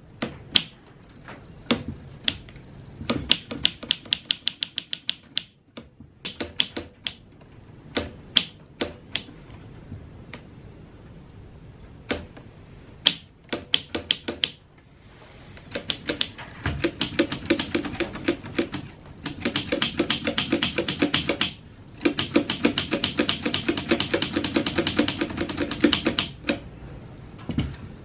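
1950s Olympia Deluxe manual typewriter being typed on: scattered single keystrokes and short runs of clacks, then a long fast run of rapid key strikes through most of the second half with a short pause in the middle. The typebars are now striking the platen after the mechanism was oiled.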